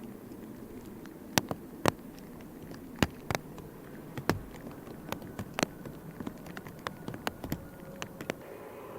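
Raindrops tapping irregularly close to the microphone, a few landing much harder than the rest, over a steady low rush of rain.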